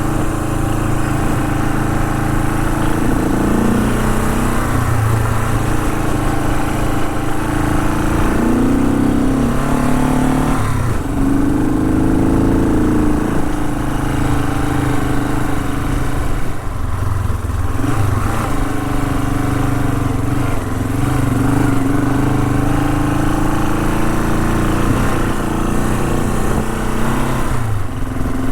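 Honda CL450's parallel-twin engine running while the motorcycle is ridden. The engine note rises and falls with the throttle, dipping sharply several times: around ten seconds in, again past halfway, and near the end.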